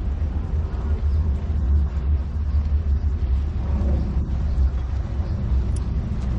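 Steady low rumble under a wash of outdoor city noise.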